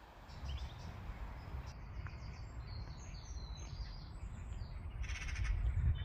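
Small birds chirping in quick short notes over a steady low rumble, with a louder, harsher bird call near the end.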